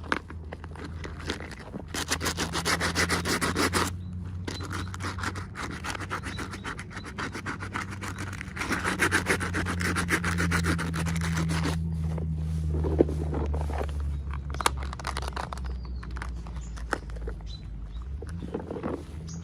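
Rubbing and scratching of packaging being handled, in several stretches, loudest about two to four seconds in and again around nine to eleven seconds, over a steady low hum.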